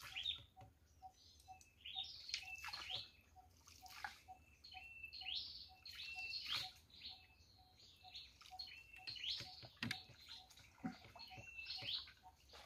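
Birds chirping and calling over and over, short whistled notes coming every second or so. A faint, even pulse runs underneath at about three beats a second.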